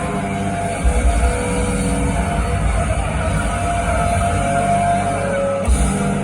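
Live rock band playing at concert volume, with heavy bass and drums and held guitar or keyboard notes.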